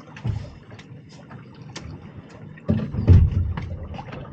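Clicks and knocks of fish and tackle being handled aboard a small anchored fishing boat, with one heavier knock about three seconds in, over a faint steady low hum.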